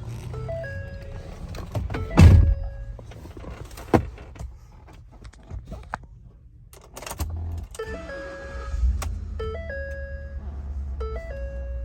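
A short melodic pattern of stepped electronic tones repeats over and over. A heavy thump comes about two seconds in. About seven seconds in, the 2012 Ford F-150's 5.0L V8 starts and runs at a steady idle.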